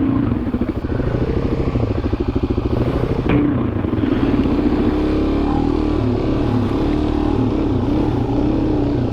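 Dual-sport motorcycle engine running at low speed, its revs rising and falling unevenly as it is ridden slowly along a dirt trail.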